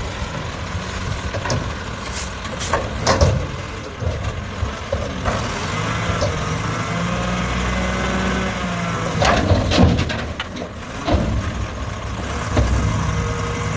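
Mack garbage truck with a McNeilus front-loader body running close by, its engine rising and falling in pitch through the middle, with several loud sudden sounds from the truck over it.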